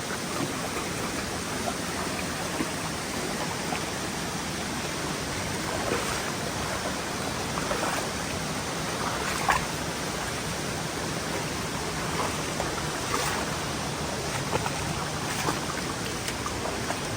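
Mountain stream water rushing steadily over rocks, with a few brief knocks or splashes scattered through it; the sharpest comes about halfway in.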